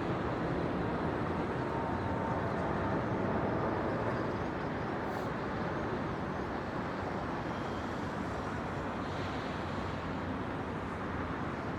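Steady distant hum of city traffic.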